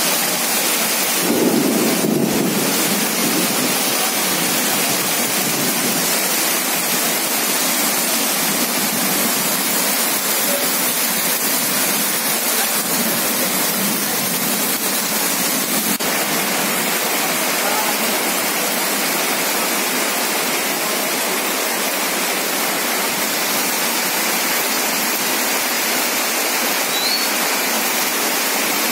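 Heavy rain pouring steadily onto a flooded street, a constant dense hiss, with a brief louder low rumble about a second and a half in.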